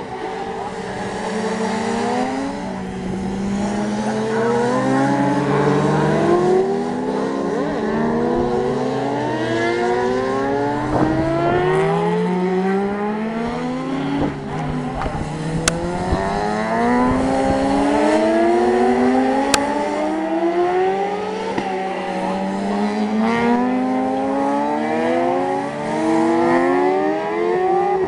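Several racing motorcycles accelerating hard and changing up through the gears, each engine note climbing and then dropping at every shift, with the bikes overlapping.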